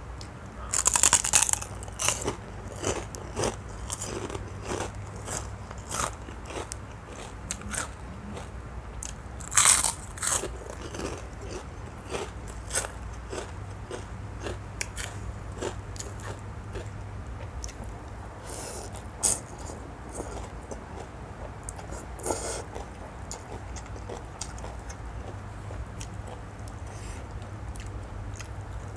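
A person eating close to the microphone: crisp crunching bites and chewing, with several louder crunches scattered through.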